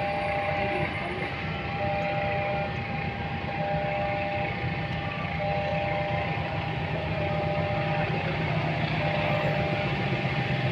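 Railway level-crossing alarm sounding a tone that repeats about every second and a half over a steady rumble of passing traffic, which grows a little louder near the end.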